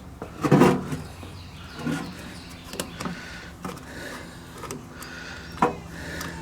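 Knocks and clicks of a small scooter carburetor being taken apart by hand, its metal parts handled and set down, the loudest about half a second in, over a faint steady low hum.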